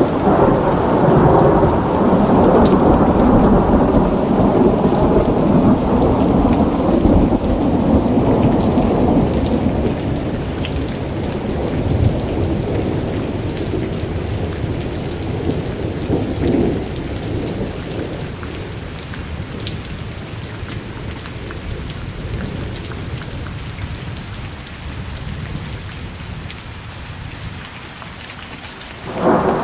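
Thunderstorm: a long rolling rumble of thunder that slowly fades over about twenty seconds, over steady rain falling on hard surfaces with scattered drips, and a fresh rumble begins at the very end.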